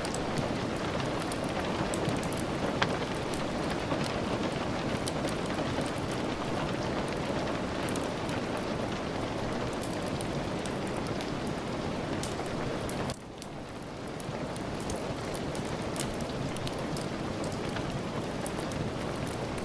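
Steady rain with fine ticks of drops, mixed with scattered crackles of a wood fire. About 13 seconds in the sound drops suddenly and builds back up over a second or so.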